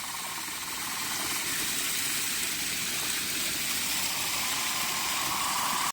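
Steady rush of flowing water, an even hiss with no break, cutting off suddenly at the end.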